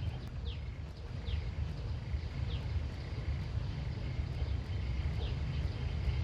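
Outdoor rural ambience: a steady low rumble under short, high, falling animal calls repeated about once a second, with a faint steady high tone behind them.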